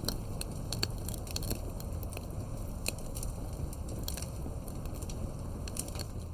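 Campfire wood burning, with irregular sharp crackles and pops over a steady low rush of flame.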